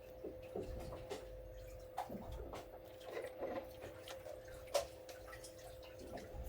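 Scattered light clicks and taps over a steady hum, with one sharper click about three-quarters of the way through.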